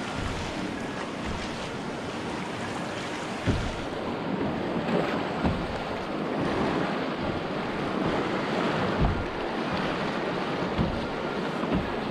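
River water rushing steadily, with wind buffeting the microphone and a few low thumps.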